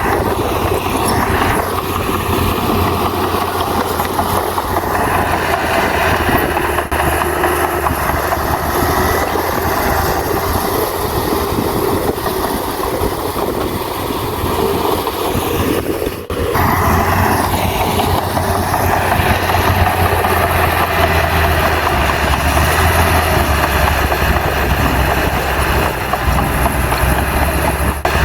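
Bulldozer's diesel engine running steadily, with a brief dropout about halfway through.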